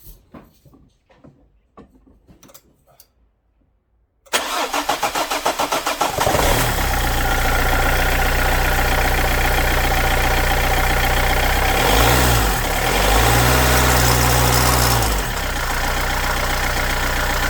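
Renault 1.5 dCi diesel engine cranking for about two seconds, then catching and running, with two short revs about halfway through. The running engine makes a rubbing noise, which the owner puts down to a broken high-pressure diesel pump whose bearings are breaking up.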